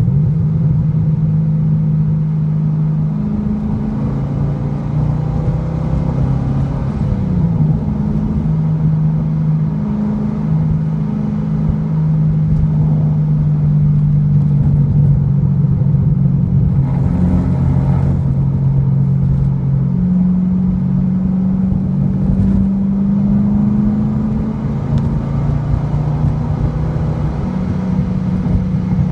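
2008 Corvette C6's LS3 V8 through an SLP aftermarket exhaust, running under way at cruising speed. Its note shifts up and down with the throttle, with pitch drops near the start and about seven seconds in, over steady road noise.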